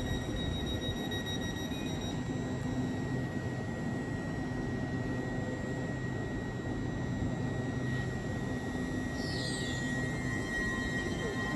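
LNER Class 800 Azuma train standing at the platform, giving a steady low hum with a thin high whine. About nine seconds in comes a short falling high chirp.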